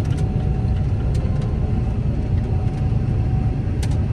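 Large diesel engine of a John Deere 9770 STS combine running steadily, a low rumble, with a couple of faint ticks.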